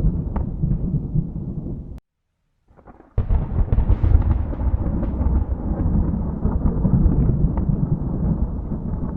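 Thunder rumbling deep with crackles, cut off abruptly to silence about two seconds in. A second later a sharp new thunderclap breaks and rolls on into a long, deep rumble.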